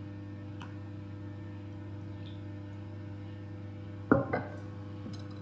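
Steady hum of a running kitchen appliance, with two sharp knocks of crockery or glass about four seconds in, the first the loudest.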